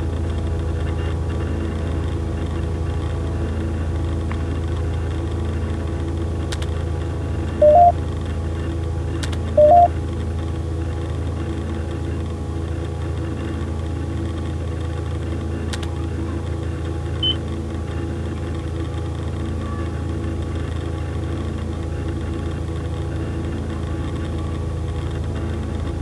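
A steady low droning hum that has a dull, lo-fi quality. About eight seconds in come two short electronic beeps, two seconds apart, the loudest sounds here, and a faint blip follows later.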